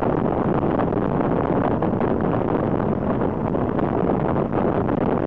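Train coaches rolling along the track at speed, with air rushing past an open carriage window onto the microphone: a steady, loud noise.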